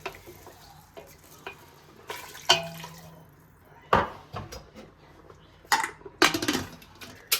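Dishes and cutlery clattering in a kitchen: a series of sharp knocks and clinks, the loudest about four seconds in, with a quick run of them between about six and seven seconds.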